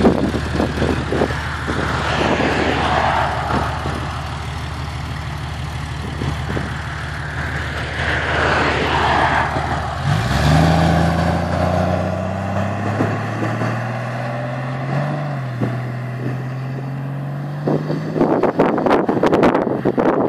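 Exhaust of a Porsche 993 Carrera 2's air-cooled flat-six through Dansk 300S sports mufflers. It runs steadily at first. About halfway in the note shifts and then climbs slowly in pitch as the engine pulls. Heavy wind noise on the microphone largely covers it and gusts near the end.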